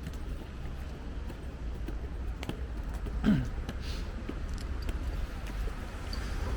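Rainy, windy city ambience with a steady low wind rumble on the microphone and scattered light clicks. About three seconds in, a short falling voice-like sound.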